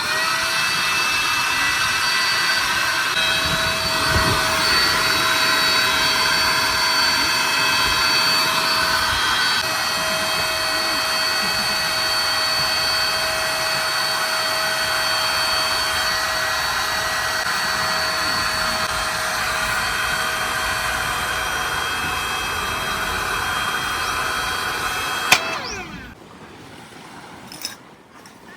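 Small electric air pump running steadily with a high whine over a rushing hiss, as used to inflate or deflate an air tent. It stops abruptly with a click near the end.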